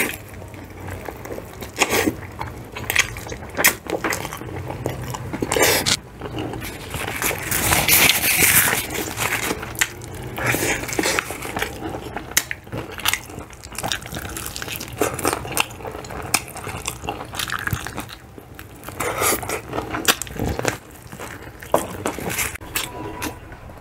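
Biting into and chewing crispy spicy fried chicken, the breaded skin crackling and crunching in the mouth, with a denser stretch of crunching about eight seconds in.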